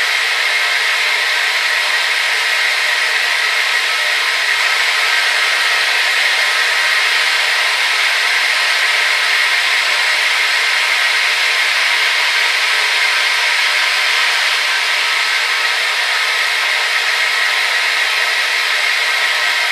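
Hair dryer running steadily: an even, continuous rushing hiss with a faint motor whine, strongest in the upper-middle range and with no deep low end.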